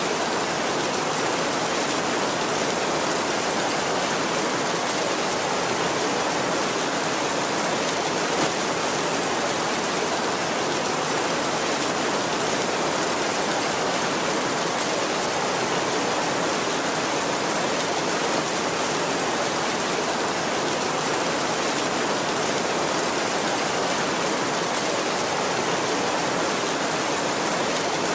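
Heavy rain falling steadily on a tin roof, an even hiss with no breaks.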